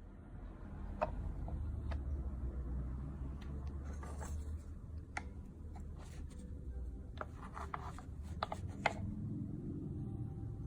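Light clicks, taps and rubbing of objects being handled, scattered irregularly over a steady low hum.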